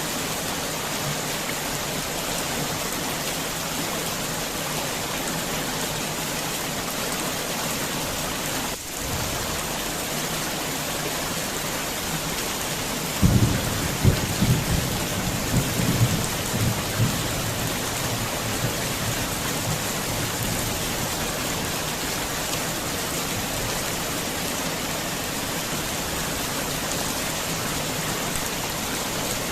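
Heavy rain falling steadily. About halfway through, thunder rumbles for about four seconds with several sharp loud peaks.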